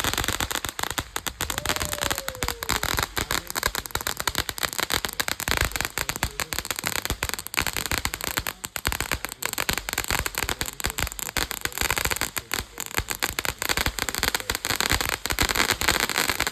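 Feast of Fire consumer firework going off: a dense, unbroken stream of rapid cracks and pops.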